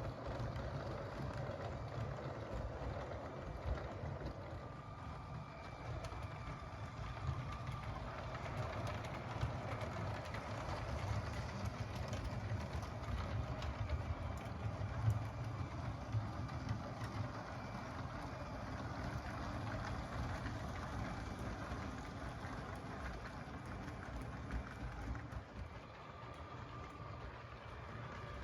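LEGO train running on plastic track: the small electric motor and wheels make a steady low rumble, with faint scattered clicks.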